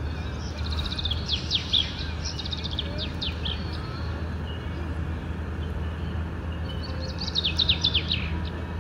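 Birdsong: two runs of quick, high, descending chirps, the second near the end, over a steady low hum.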